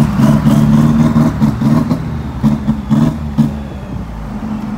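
Vehicle engine running while under way: a steady low drone with a few sharp knocks or clatters, easing off about three and a half seconds in.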